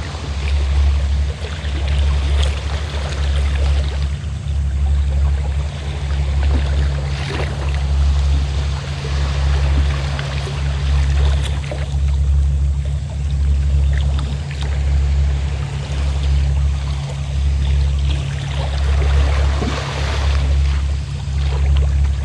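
Fishing boat's engine running with a steady low throbbing hum, under waves washing and lapping that swell and fade.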